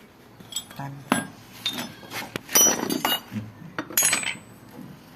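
Metal hand tools clinking and knocking against metal parts, in several irregular sharp strikes with a short ring.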